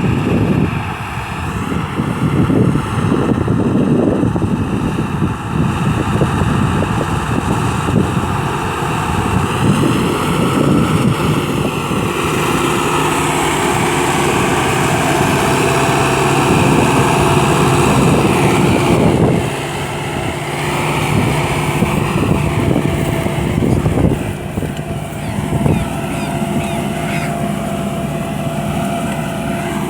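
Ford 7710 tractor's diesel engine running steadily; its engine note settles into an even hum partway through.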